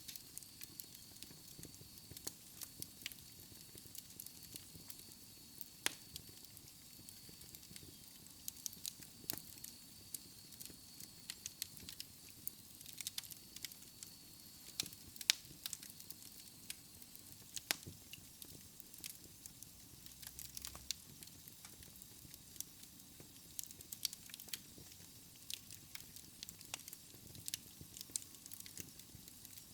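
Wood fire crackling in a fireplace: irregular sharp pops and snaps over a soft hiss, with one louder pop about halfway through.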